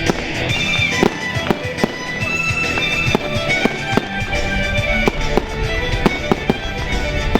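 Fireworks going off in a rapid, irregular run of sharp bangs and crackles over loud music.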